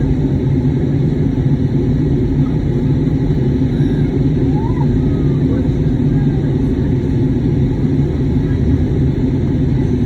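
Steady cabin noise of an Airbus A320neo in flight: a loud, even, low rumble of airflow and engines.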